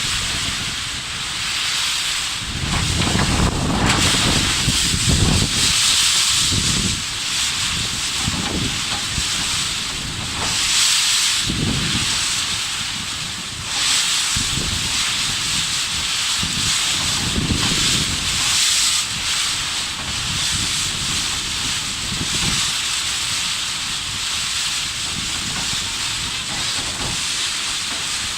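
Strong tropical-storm wind blowing steadily, a loud rushing hiss, with gusts buffeting the microphone in low rumbles every few seconds.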